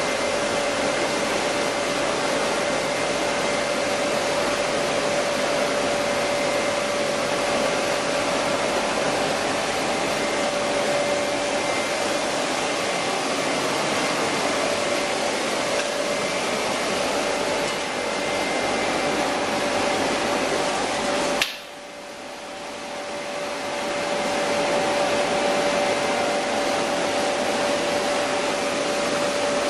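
Chili powder milling machinery running steadily: a loud, even mechanical rush with a steady whine. A sharp click comes about 21 seconds in, after which the sound drops away and builds back up over a few seconds.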